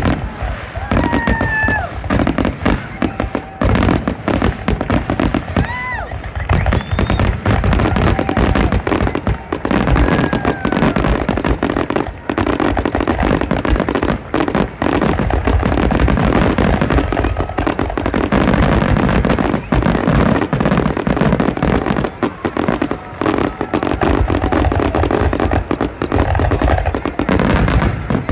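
Fireworks going off in a continuous barrage: dense, rapid bangs and crackling with no let-up.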